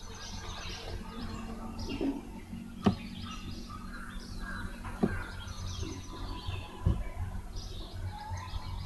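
Birds chirping repeatedly in the background over a low steady hum, with three sharp clicks spread through.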